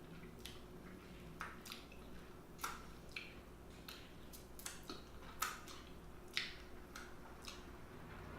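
Close-miked eating sounds: wet mouth clicks and lip smacks while chewing, coming irregularly, with two sharper smacks a little past halfway.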